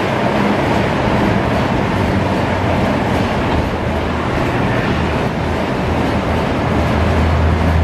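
LHB passenger coaches of the Bangalore Rajdhani Express running at speed on the rails, a loud, steady rolling noise of wheels on track that grows slightly heavier in the low end near the end.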